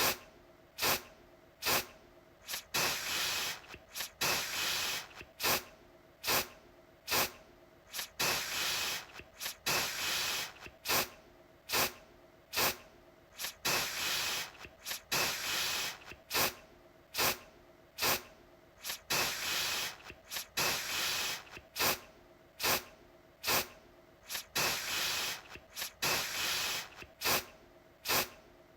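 Aerosol deodorant can spraying in repeated bursts of hiss: quick short puffs mixed with longer sprays of up to about a second, one after another.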